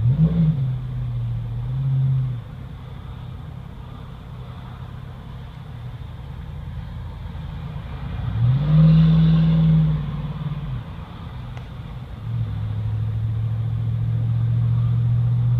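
2014 Ram 2500's 6.4 L Hemi V8 through a 40 series Flowmaster muffler with the resonator deleted, a deep exhaust tone with a little rasp heard from the moving truck. It revs up briefly at the start, pulls harder with a rising, louder note about halfway through, then settles into a steady, louder cruise toward the end.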